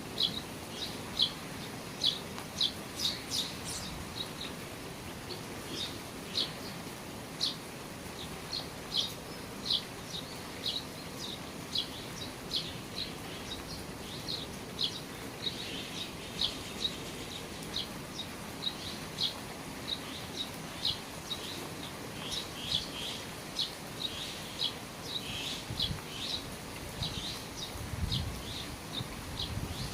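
A small bird chirping over and over in short, sharp high notes, about one or two a second, over the steady hiss of rain falling under the eaves.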